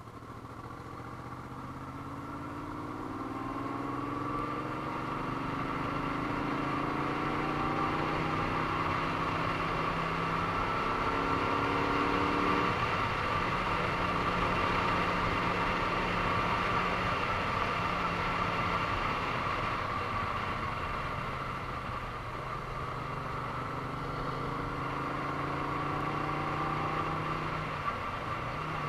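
Moto Guzzi V35's air-cooled V-twin engine under way on a climbing ride, heard from the rider's helmet. The revs rise steadily and drop sharply about twelve seconds in at a gear change, then rise again and drop once more near the end, over a steady rush of wind. The sound fades in over the first few seconds.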